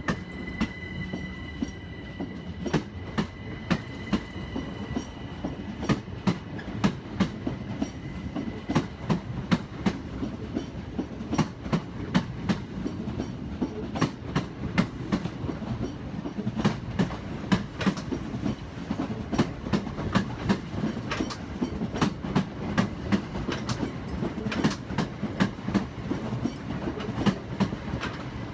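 Passenger multiple-unit train running slowly into the station, with a steady low rumble and its wheels clicking over rail joints and pointwork several times a second. A faint high whine in the first few seconds fades away.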